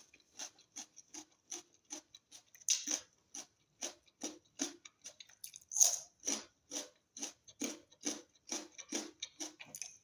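A person chewing monkey kola fruit: a steady run of short chewing sounds, about two to three a second.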